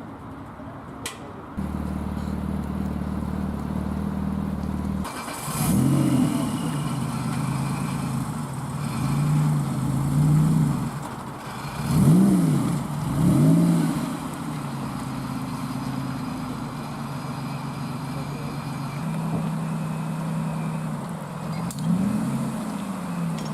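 A car engine idling steadily, blipped four times: the pitch rises and falls quickly about five seconds in, twice near the middle, and once more near the end.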